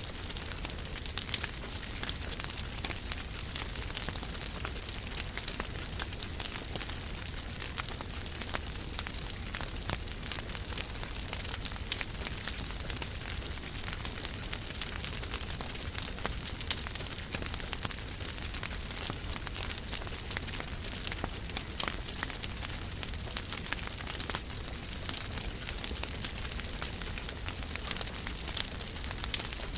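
Wood fire crackling in a fireplace: a steady hiss with many small crackles and a few louder pops.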